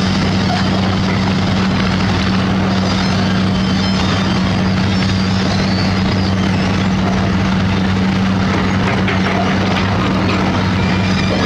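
Heavy construction machine's diesel engine running steadily under load, a constant loud drone with a low hum and no change in pitch.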